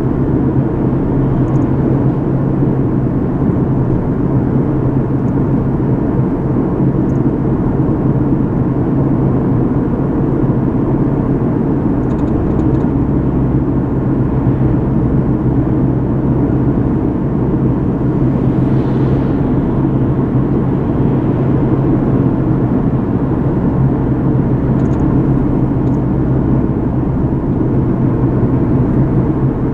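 Steady drone of a moving car heard from inside the cabin: a low engine and road hum with tyre noise.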